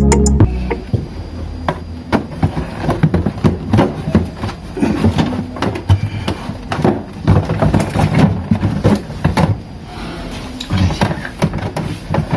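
Plastic refrigerator drawers, shelves and covers being handled and fitted back into place: irregular clicks, knocks and clatter.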